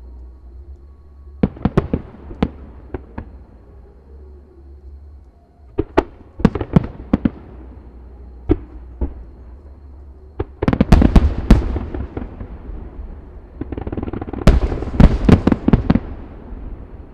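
Fireworks shells bursting: scattered groups of sharp bangs, then two dense volleys of rapid bangs with crackling in the second half.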